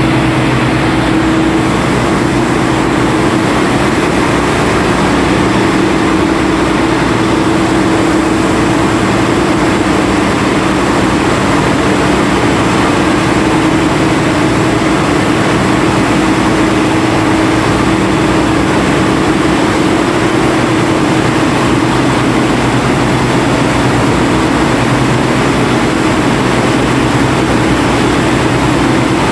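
Engine of an ore-suction dredge boat running steadily and loudly, a constant hum over a dense wash of mechanical noise.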